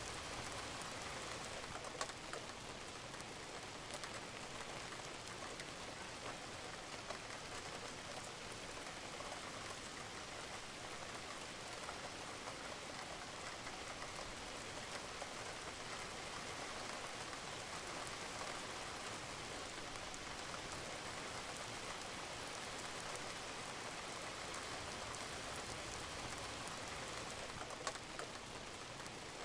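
Steady rain falling on a roof, an even hiss with occasional sharper drip ticks scattered through.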